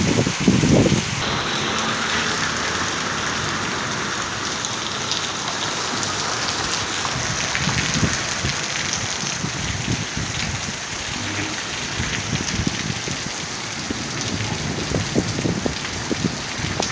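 Heavy rain falling steadily, a dense even hiss of drops on surfaces. Low rumbles come in the first second and again near the end.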